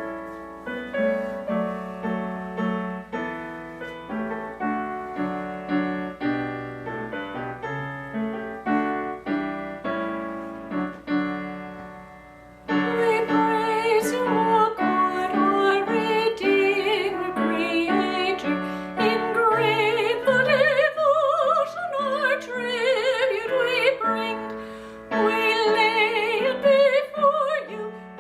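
A piano plays a hymn introduction in separate struck chords. About halfway through, a singer joins with a vibrato voice over the piano, and the music grows louder.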